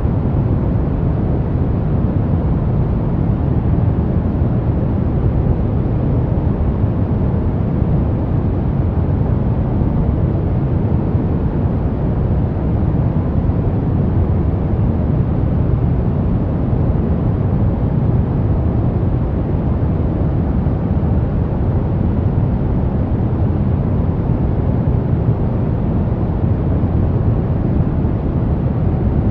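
Steady pink noise: an even, constant hiss with most of its weight in the low end, unchanging throughout.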